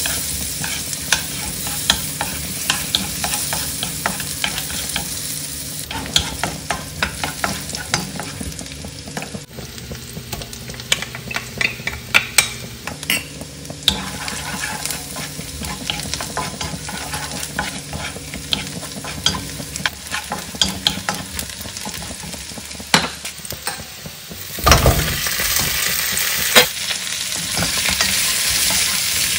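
Onions and garlic frying in butter in a wok, a steady sizzle with a wooden spatula scraping and clicking against the pan. Near the end, chopped pork bones drop into the wok with a loud clatter and the sizzle grows louder.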